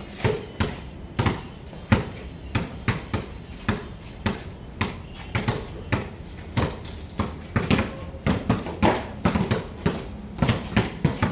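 Several basketballs being dribbled on a hard court, many bounces overlapping in an irregular patter.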